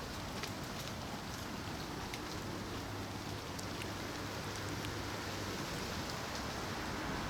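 Strong wind hissing steadily through garden foliage, with scattered faint ticks and a low hum in the background for a few seconds.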